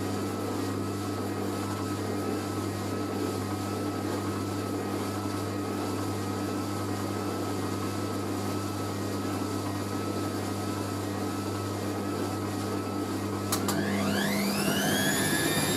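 Hoover A3060 Electronic 1100 washing machine spinning: a steady motor hum with a faint high whine, then a click near the end and the motor whine rising quickly in pitch as the drum speeds up, levelling off just before the end.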